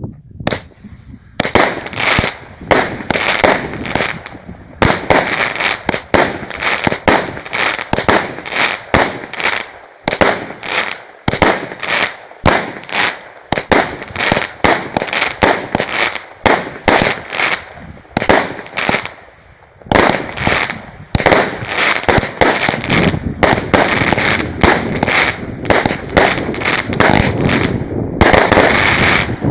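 A 36-shot 'Vyuga' consumer fireworks cake firing its shots in quick succession, about two a second with brief pauses, and a denser run just before the end.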